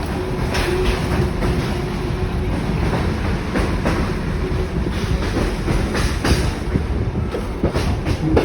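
Kuranda Scenic Railway passenger train running along the track: a steady low rumble with irregular clicks and knocks of the wheels over the rails.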